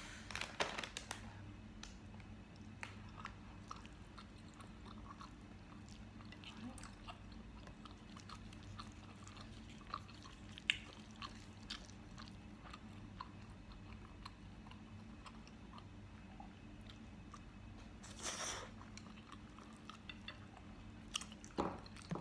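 Close-miked chewing of spicy instant noodles with melted cheese: soft wet mouth clicks and smacks throughout, with a short louder rush of noise about 18 seconds in.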